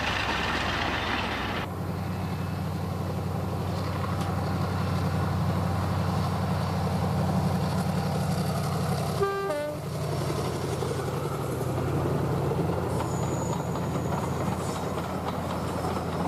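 Class 35 Hymek diesel-hydraulic locomotive engine sound running steadily, with a short horn toot about nine seconds in.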